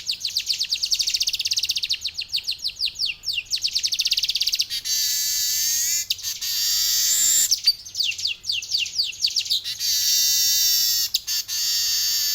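Male manyar (weaver bird) singing: fast rolling runs of short, high, down-slurred chattering notes, broken twice by long buzzy wheezes, about five seconds in and again near eleven seconds.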